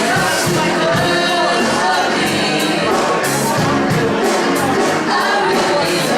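Gospel music: voices singing over a band with a steady beat.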